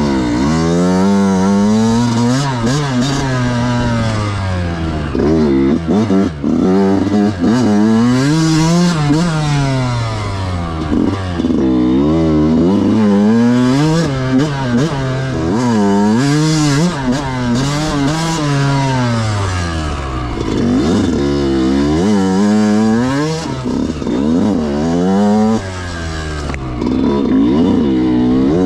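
Yamaha YZ125 125cc two-stroke single-cylinder motocross engine ridden hard through tight turns, revving up and dropping back over and over as the throttle is opened and shut, with a few deeper dips to low revs. The carburettor is jetted rich on the main jet while bottom-end response is being tuned, and the rider suspects a lean pilot jet.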